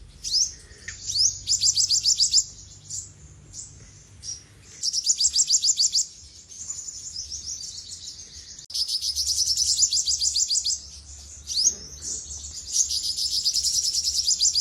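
Olive-backed sunbird singing: high, rapid trills of quickly repeated notes in four phrases of one to two seconds each, with a few quick sliding notes in the pauses between.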